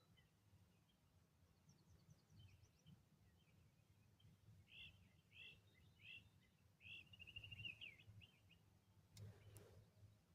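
Near silence with a faint songbird calling: a few short chirps, then a quick trill. A soft knock comes near the end.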